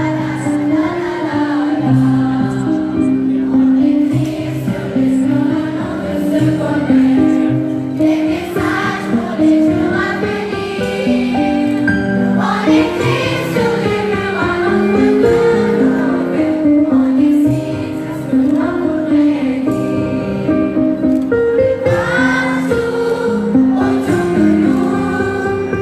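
A choir singing a song with musical accompaniment, the held notes changing continuously.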